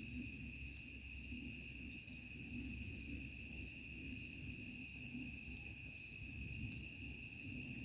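Night-time insect chorus, a steady high trilling at two pitches, with faint scattered crackling clicks over it.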